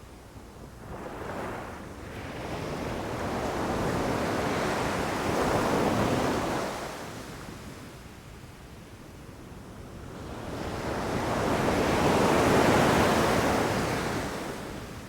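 Sea waves breaking and washing up a beach. There is a small surge about a second in, then two large waves that swell and fade about six to seven seconds apart.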